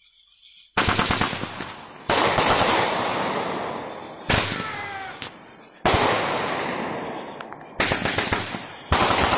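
A multi-shot consumer firework going off: six sudden bangs a second or two apart, each trailing off in crackling that fades before the next.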